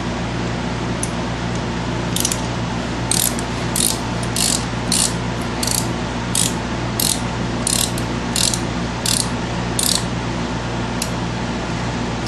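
Hand socket ratchet backing out the brake caliper bolts, its pawl clicking in about a dozen short strokes roughly every two-thirds of a second, starting about two seconds in and stopping about ten seconds in.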